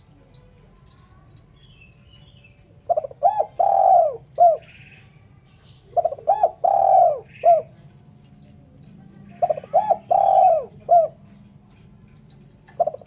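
Spotted dove (terkukur) cooing in three phrases a few seconds apart, with a fourth starting at the end. Each phrase is a few quick short coos, one longer coo and a short closing note. Faint chirps from another small bird come between phrases.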